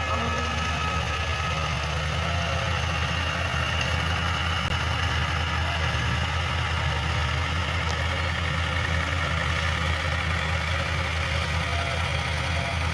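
Tractor diesel engine idling steadily with a low, even hum.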